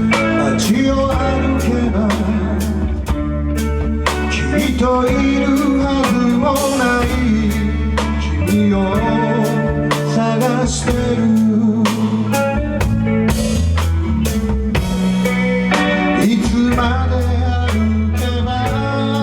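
Band music with a steady beat on a drum kit, bass notes and guitar, bluesy in feel.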